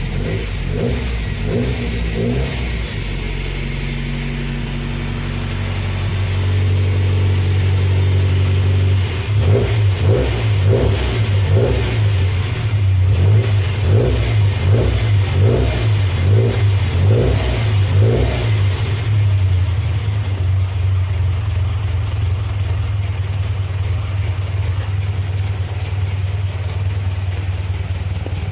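Lancia Fulvia's narrow-angle V4 engine running through a new stainless-steel exhaust manifold, its throttle blipped in a run of short revs about once a second, then settling to a steadier, lower note for the last several seconds.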